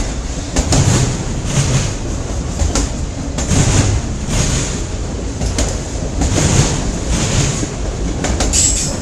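Cars of a CN freight train rolling past on the rails: a steady rumble with repeated clicks of the wheels over rail joints.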